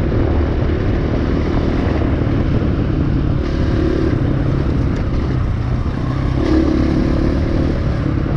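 Dirt bike engine running under way on a sandy trail, its pitch rising and falling with the throttle.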